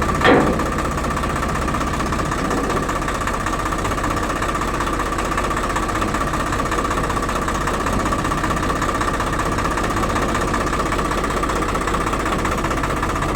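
Heavy diesel engine running steadily with a fast knocking pulse and a steady whine, with a brief louder noise just after the start.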